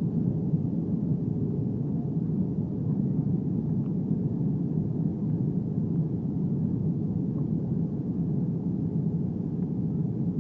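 Steady low rumble of an Airbus A320 airliner's cabin in flight: engine and airflow noise, even throughout with no distinct tones.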